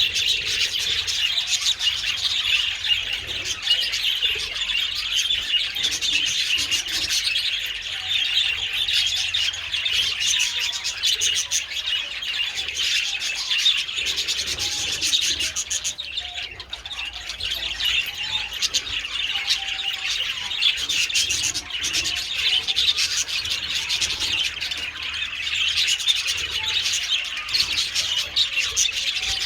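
A flock of budgerigars chattering and warbling together, a dense continuous mass of rapid chirps from many birds at once.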